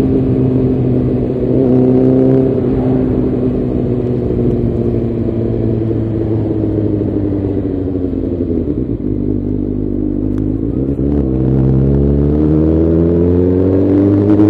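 Suzuki GSX-R600 inline-four engine heard from the rider's seat while riding: the engine note falls slowly as the bike slows. About eleven seconds in the note changes abruptly, then climbs steadily as the bike accelerates.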